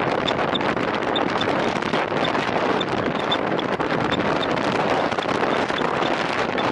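Wind rushing over the microphone of a camera carried on a road bike ridden hard in a time trial: a loud, steady roar with a faint high tick about twice a second.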